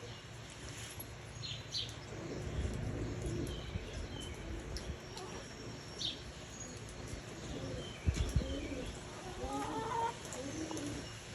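Tippler pigeons cooing, with bursts of wing flapping, a louder flurry about eight seconds in.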